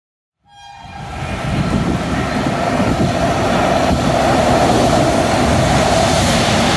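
Express train hauled by an electric locomotive approaching and passing at speed along the platform. A horn sounds briefly as the sound comes in, then the rumble and rail noise build up and stay loud and steady as the locomotive and coaches go by.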